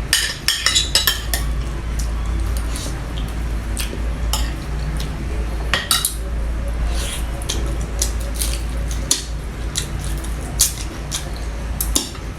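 Eating utensils clinking and scraping against a plate and bowl during a meal, in scattered sharp clicks with a quick run of them about half a second to a second in, over a steady low hum.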